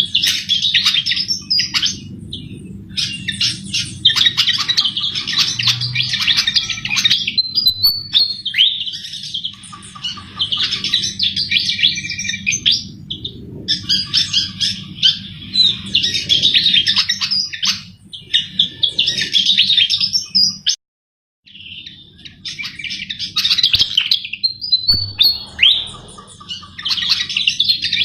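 Sikatan jawa, a flycatcher, singing vigorously: quick twittering phrases of a second or two each, repeated after short pauses, over a steady low hum. The sound cuts out completely for under a second about three-quarters of the way through.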